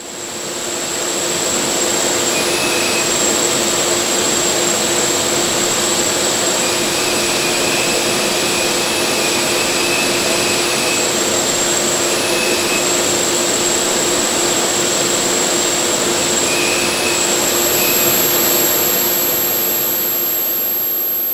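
Abrasive blast nozzle blasting at full pressure: a loud, steady rush of compressed air and abrasive with a thin high whistle through it, building up over the first second or two. A second, higher whistle joins about three-quarters of the way through.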